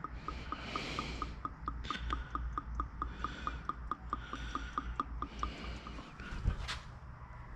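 Rapid, evenly spaced mechanical clicking, about five or six clicks a second, that stops about five and a half seconds in, over a low steady rumble, with a couple of sharper knocks near the end.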